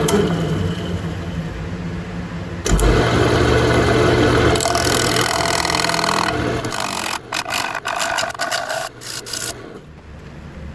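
Wood lathe running with a turning tool cutting inside a spinning bowl to thin and flatten its bottom: a steady motor hum under the hiss of the cut, then a run of short scraping contacts. The cutting stops near the end, leaving the quieter hum of the lathe.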